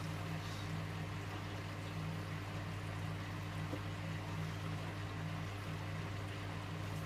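Electrolux W455H commercial washing machine running early in its Warm 60 wash, with water running and a steady low hum.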